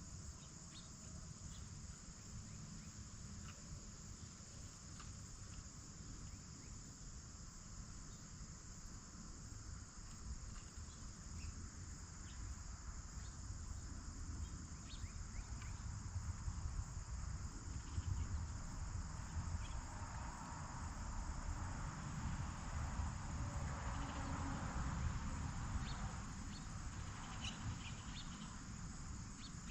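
A steady, high-pitched late-summer insect chorus of crickets runs on without a break. Under it is a low rumble, with a few short high chirps or ticks scattered through. A broader hiss swells in the second half and eases off near the end.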